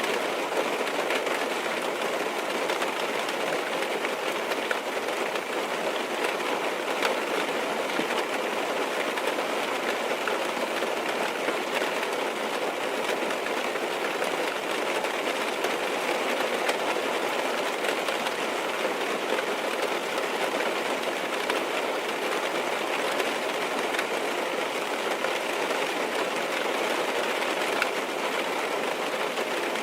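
Steady rain on a car, many small drops tapping against the windows in an even, unbroken hiss.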